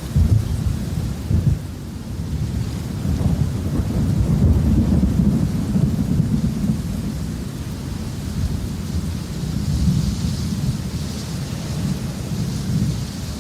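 Thunderstorm: low thunder rumbling over steady rain. There are a couple of sharper claps in the first two seconds, then a longer rolling rumble builds and fades through the middle.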